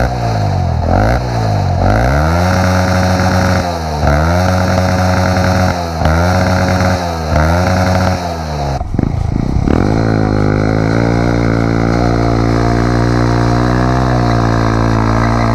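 Single-cylinder Znen CBF 125 motorcycle engine with its exhaust silencer removed, revved up again and again, each time held briefly at high revs and then dropped. About nine seconds in the revving cuts off and a steady drone takes over.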